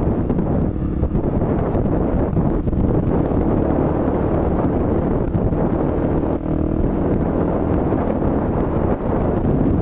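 Suzuki DR-Z dirt bike's single-cylinder engine running under way, with heavy wind noise on the microphone.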